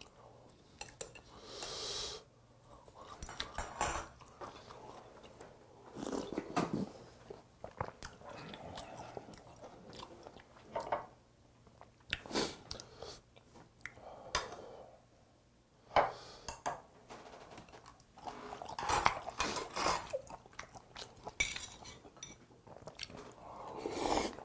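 Close-up chewing of a meal, with now and then a sharp click of metal chopsticks against a bowl or plate.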